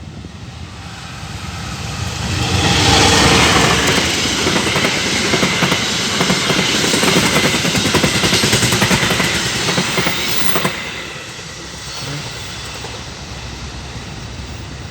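A train passing close by, its wheels clattering over the rail joints. It builds over the first few seconds, stays loud for about eight seconds, then falls away to a lower rumble.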